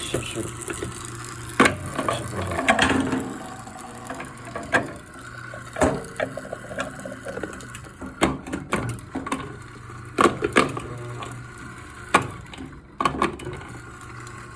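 Scattered clicks and knocks as the Eureka Mignon coffee grinder's parts are handled and fitted. No steady grinding is heard.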